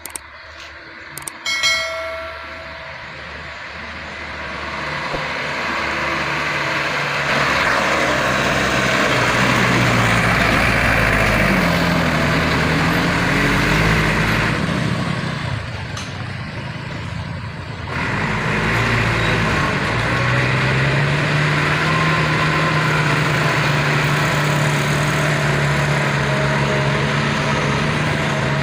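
Heavy truck's diesel engine pulling up a hill under load, growing louder over the first several seconds. Its note bends and drops briefly about halfway, then rises again and holds steady.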